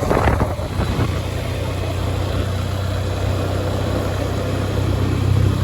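Truck engine running steadily, a constant low drone with road and engine noise over it, heard while riding on the vehicle.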